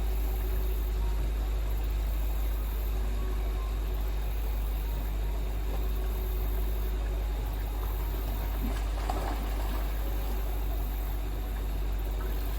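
Steady rush of fast-flowing stream water with a constant low rumble.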